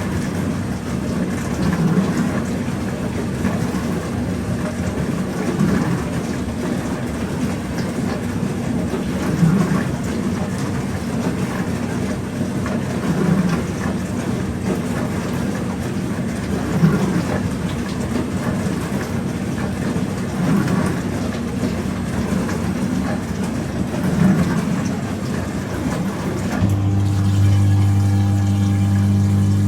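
Pro Action PRSLG96W slimline dishwasher running a wash, water spraying inside with a steady swish that swells about every four seconds. Near the end a pump starts with a steady hum.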